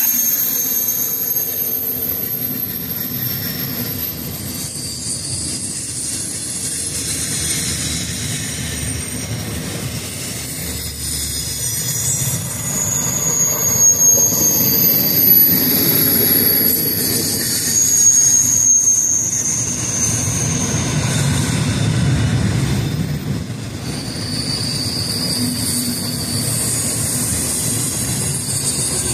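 Intermodal freight cars of a passing train rolling by on the rails, with high-pitched wheel squeals at several pitches that come and go and drift up and down.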